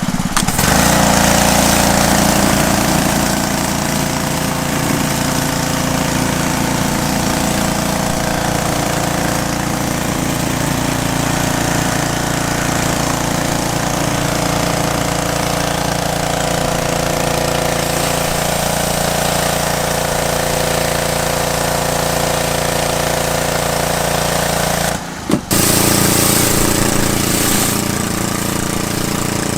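Pressure washer's small petrol engine running steadily under load, with the dense hiss of high-pressure water spraying from a spinning 15-inch Kärcher surface cleaner onto concrete. The sound breaks off briefly about 25 seconds in, then carries on.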